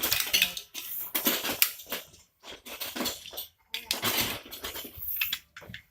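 Plastic Lego bricks clattering and rattling as they are rummaged through and handled, in irregular bursts of clicks.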